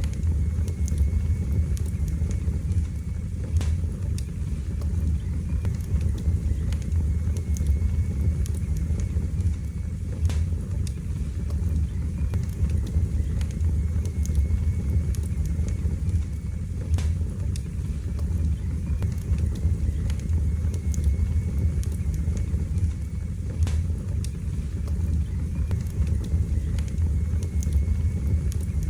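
Wood fire burning in a fireplace: a steady low rumble of flames with scattered sharp crackles and pops every few seconds.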